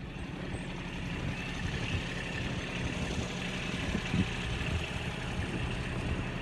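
Tractor engine running steadily as the tractor is driven, with a short knock about four seconds in.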